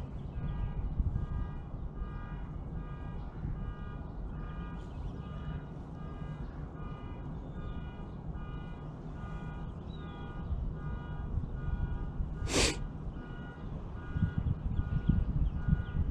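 An electronic alarm beeping in a steady, evenly repeating pattern, over a low rumble of wind on the microphone. One short sharp noise cuts in about twelve seconds in.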